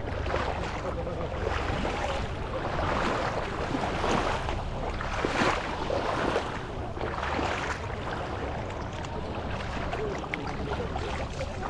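Seaside ambience: wind rumbling on the microphone over washing surf, with scattered voices of people nearby.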